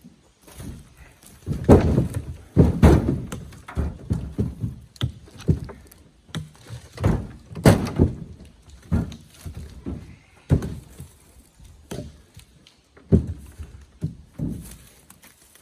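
Cherry firewood blocks being tossed out of a pickup bed, landing in irregular heavy thuds and wooden knocks against each other. The loudest clusters come about two seconds in and again near eight seconds.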